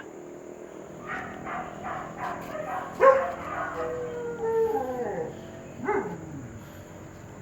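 A dog yelping and howling: a run of short yelps, then a longer howl that falls in pitch, and one more yelp near the end.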